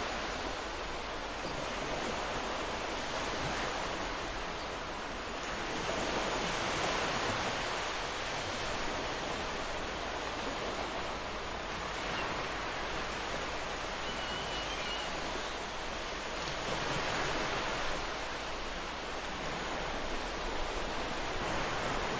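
Ocean surf washing onto a beach: a steady wash of noise that swells twice, about six seconds in and again around seventeen seconds, as waves break.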